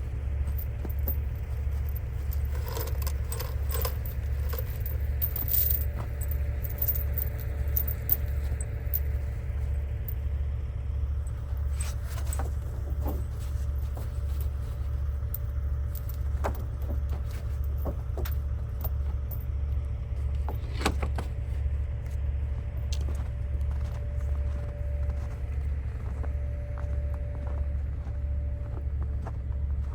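Logging truck's diesel engine running with a steady low drone, heard from inside the cab. Scattered small metallic rattles and jingles sound over it.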